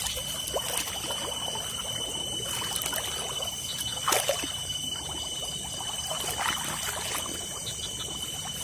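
Water trickling and splashing in a flooded rice paddy, with scattered small splashes and a sharper one about four seconds in.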